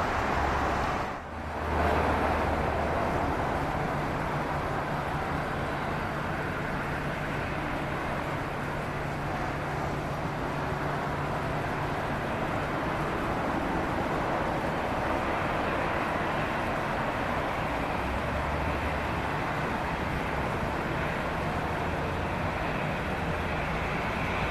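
Steady jet engine noise from an airliner, with a faint low hum under it and a brief dip about a second in.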